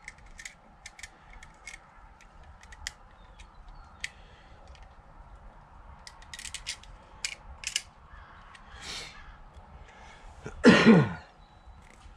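Light clicks and ticks of the brass or stainless 22-gauge wire and the float parts being handled and worked, scattered irregularly. About ten and a half seconds in, one loud brief sound sliding steeply down in pitch.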